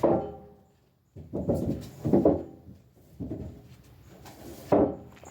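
Chickens calling, a few short calls about a second apart.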